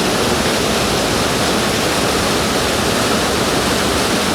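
Waterfall pouring, heard from very close: a loud, steady rush of falling water.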